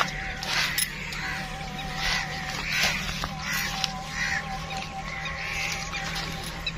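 Birds calling on and off over a steady low hum, with a faint wavering tone running underneath.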